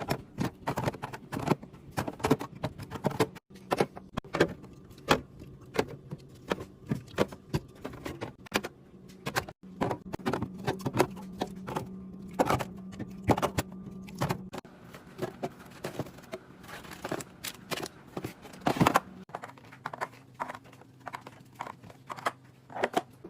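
Bottles, jars and plastic organizer bins clinking, tapping and knocking as they are set down and slid into a refrigerator, a quick irregular run of small hard clicks, several a second, over a low steady hum.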